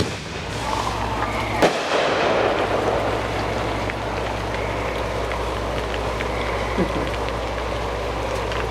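Consumer fireworks going off: a sharp bang about one and a half seconds in, followed by a couple of seconds of crackling, then a smaller pop later, over a steady hiss.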